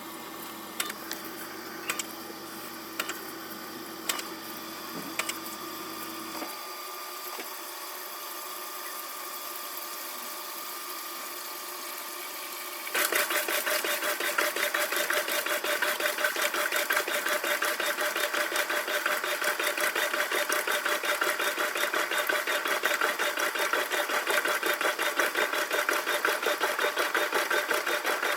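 Washing machine running, sped up tenfold: a steady hum with sharp clicks about once a second at first, then about halfway through a much louder, fast, even rattle starts.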